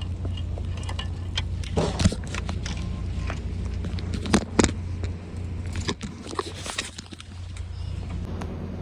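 A steady low rumble with scattered clicks and knocks, the loudest a pair about four and a half seconds in.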